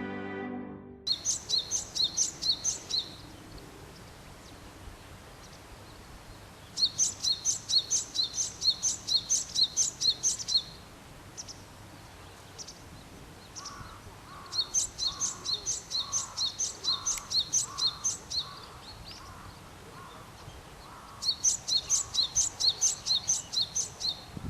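Wild songbird singing in four bouts, each a quick run of sharp, high repeated notes lasting a few seconds. A softer, lower series of repeated calls from another bird comes in the middle.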